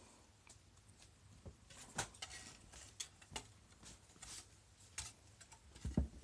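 A kitten climbing up and down louvered slats: irregular clicks and taps of claws and rattling slats, with a louder knock near the end.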